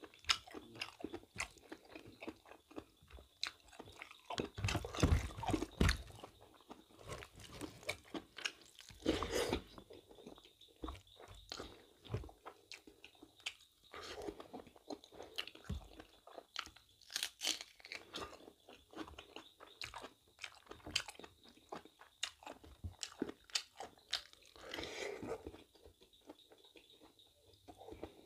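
Close-up chewing and mouth sounds of a person eating mutton innards curry with rice by hand: many short wet smacks and clicks, with louder stretches about five, nine and twenty-five seconds in.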